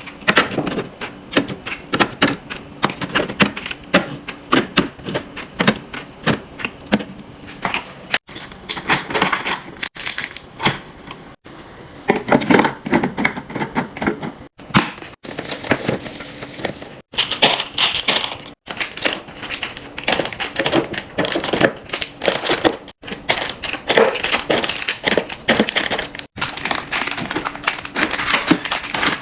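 Rapid tapping, clicking and clattering of plastic containers, bottles and packaging being handled and set into a fridge, with some crinkling of wrappers. Several abrupt cuts break the sound.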